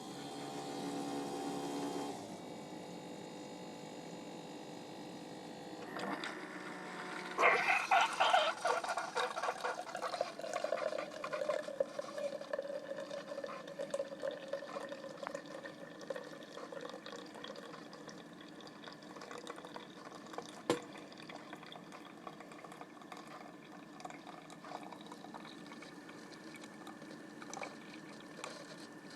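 Keurig coffee maker brewing: a steady pump hum, then about seven seconds in coffee starts streaming into the cup with loud gurgling and sputtering that slowly dies down to a trickle and drips. One sharp click comes near the end.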